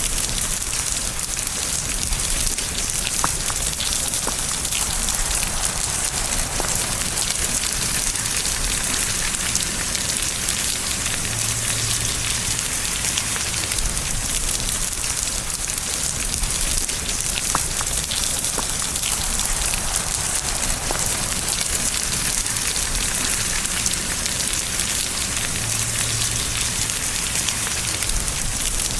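Steady rain falling on a surface, with scattered individual drop hits standing out.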